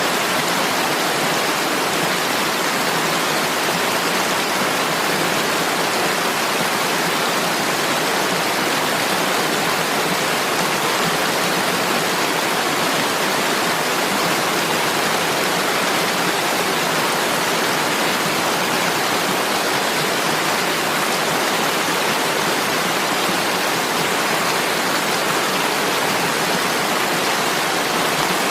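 Steady rushing water: an even, unbroken hiss with no separate drops standing out.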